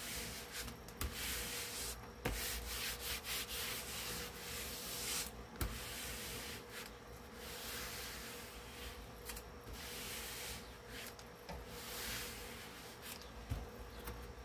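Hands rubbing and smoothing grill cloth down onto a speaker grill board that is tacky with spray adhesive, in repeated scratchy strokes of varying length, with a few light knocks.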